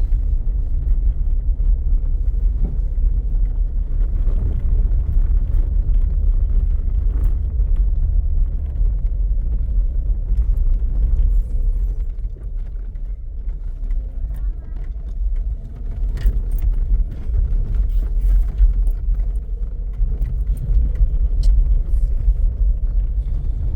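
A car driving: a steady low engine and road rumble, easing a little for a few seconds mid-way, with scattered small clicks and rattles near the end.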